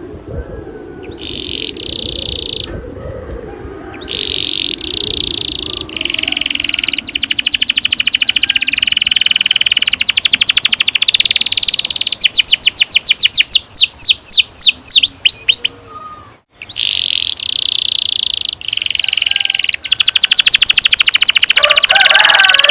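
Domestic canary singing long rolling trills: fast, evenly repeated notes in phrases broken by short pauses, with a run of sweeping whistled notes past the middle and a brief break a few seconds later.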